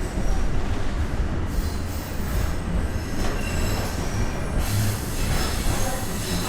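Bombardier Toronto Rocket subway train running on steel rails, a steady rumble with thin wheel squeal coming and going.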